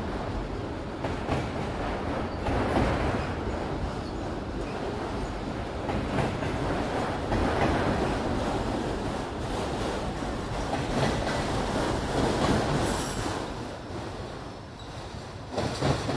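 Train cars rolling past close by, steel wheels clattering over the rail joints, with the noise dropping away near the end after a last sharp clack.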